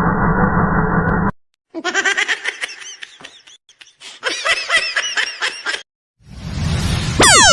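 Muffled music stops about a second in, then high-pitched laughter runs for about four seconds in short wavering bursts. Near the end a rising noise breaks into a sweep of sliding tones, a cartoon sound effect.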